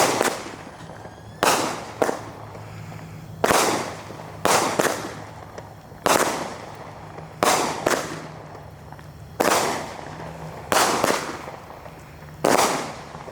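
Consumer fireworks firing a string of about a dozen sharp shots, roughly one a second, each trailing off over about a second. A faint low steady hum runs underneath.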